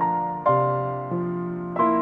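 Slow, gentle piano music: soft chords struck about three times in two seconds, each fading away before the next.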